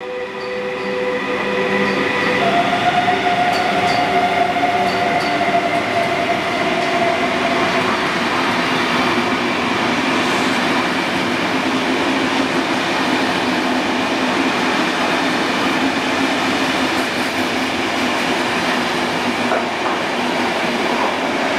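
Ktt double-deck through train running through the station at speed: the electric locomotive passes first with a steady whine for several seconds, then the double-deck coaches roll past in a continuous loud rumble of wheels on rail.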